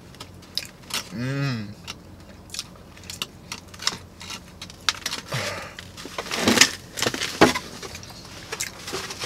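Close-up eating sounds of a man chewing a doughnut, with many small wet mouth clicks and smacks. A short hummed "mmm" comes about a second in, and a few louder rustles of the cardboard doughnut box follow past the middle.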